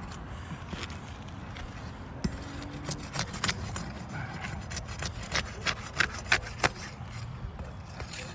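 Scraping and a run of sharp clicks and knocks, loudest between about five and seven seconds in: hands and tools working at asphalt roof shingles.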